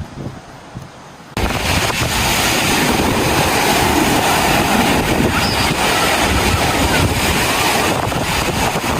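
Strong wind buffeting the microphone, mixed with sea surf. It cuts in suddenly about a second and a half in, after a quieter low rumble, and then holds loud and steady.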